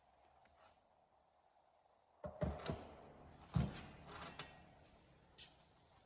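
A few separate light knocks and clatters of metal tubing and tools being handled, coming about two seconds in and spaced out after that, with the angle grinder not running.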